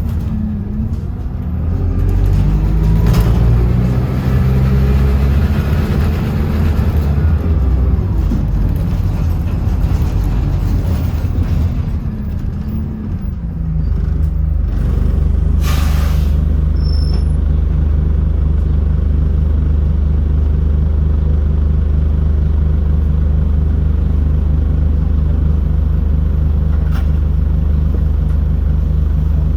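City bus engine heard from on board: it pulls and changes pitch for the first dozen seconds, then settles to a steady idle about halfway through. A brief hiss comes shortly after it settles.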